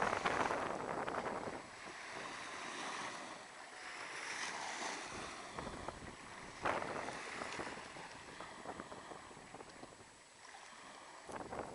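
Black Sea waves washing onto a sandy beach, swelling and fading every few seconds, with wind noise on the microphone.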